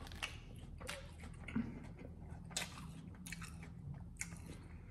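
Close-up chewing of a mouthful of lettuce salad, with a string of short crisp crunches every half second or so.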